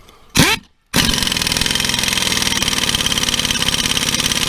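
Impact wrench tightening a mower blade bolt down onto a friction-fit washer: a short burst about half a second in, then steady rapid hammering for about four seconds.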